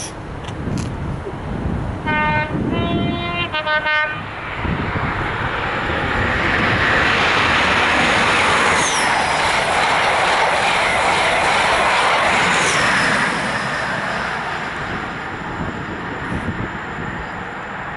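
An InterCity 125 HST sounds two short blasts on its horn, then runs through the station at speed. The rush of wheels and power-car engine builds, stays at its loudest for several seconds as it passes, and fades away.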